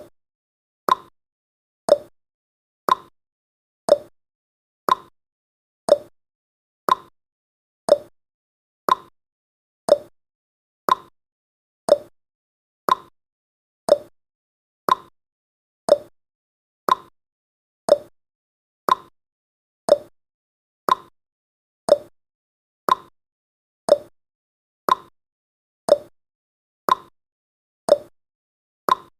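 Countdown timer's clock-tick sound effect, one short tick every second, evenly spaced.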